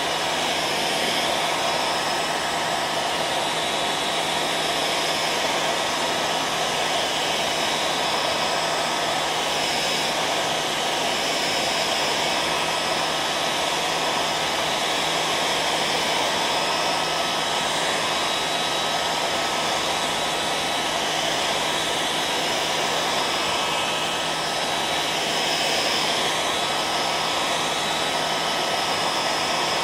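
Hair dryer running steadily: a continuous blowing rush of air with a thin, steady whine under it, unchanging throughout.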